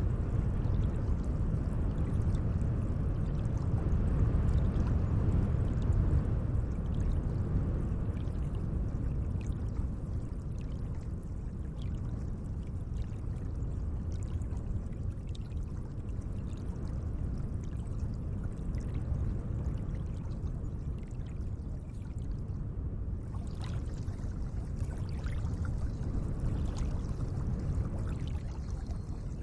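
Gentle lake water lapping and washing in a steady, low rush, a little louder in the first few seconds. Faint light clicks come in over it in the last few seconds.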